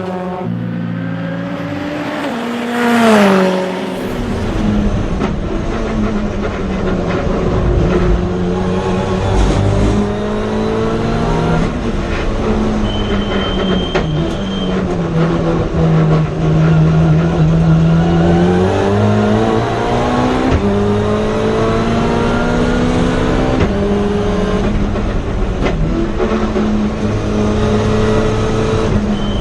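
Turbocharged four-cylinder engine of a Mitsubishi Lancer Evolution IX time-attack car running hard on track, its revs rising and falling as it accelerates and slows through the gears. About three seconds in, a brief loud rush that falls in pitch.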